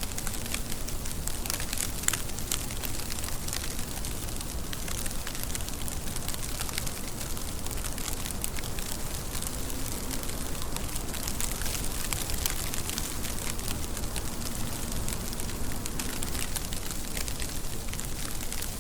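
Steady rain falling, with a dense patter of many small, crisp drop ticks over an even hiss.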